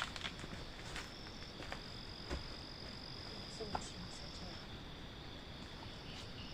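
Insects trilling in a steady high-pitched drone, with a second, higher trill that sets in about a second in, stops past the middle and briefly returns near the end. A few light clicks and taps sound over it.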